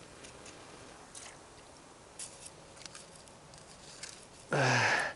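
Faint scattered clicks and light rustles over low background noise, then near the end a short wordless vocal sound from a person, falling in pitch and lasting about half a second.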